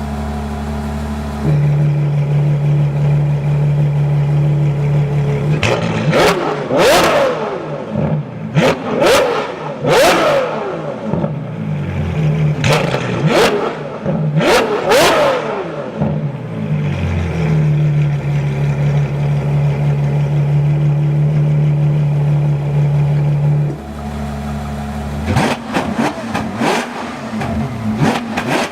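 Ferrari F12 Berlinetta's V12 through a Novitec Rosso valved race exhaust, idling and then revved hard in a string of quick blips that rise and fall sharply. It settles back to a steady idle, then is blipped again several times near the end.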